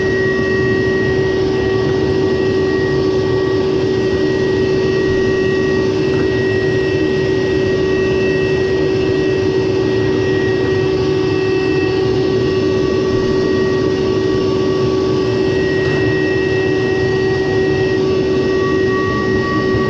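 Frigidaire clothes dryer running, its motor and drum turning with a steady hum and a constant whine.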